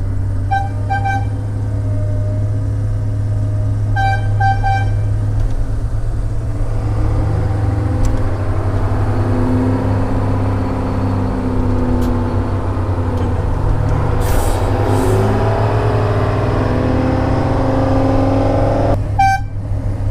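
Heavy diesel machine engine running steadily. Short high horn toots come in two groups of three near the start and once more near the end, typical of logging signal toots. In between, the engine's pitch rises and falls as it works under load.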